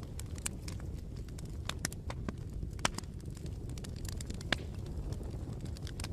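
Wood fire crackling: a steady low rumble of burning with irregular sharp pops and snaps, two louder pops around the middle.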